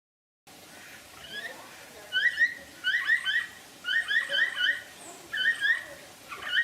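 High, squeaky calls of a small animal: short rising chirps in quick clusters of two to four, about once a second, after a brief silence at the start.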